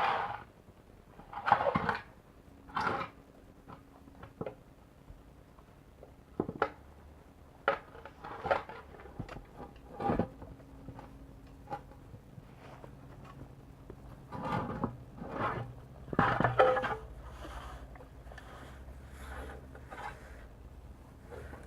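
Irregular knocks and clatters of things being handled and set down, busiest near the end, over a faint steady low hum.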